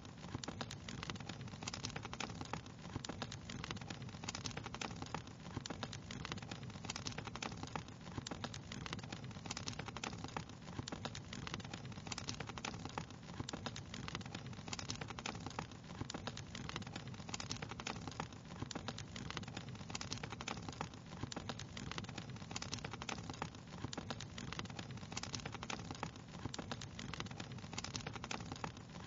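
Wood fire crackling steadily: many small, irregular pops and snaps over a constant low hiss.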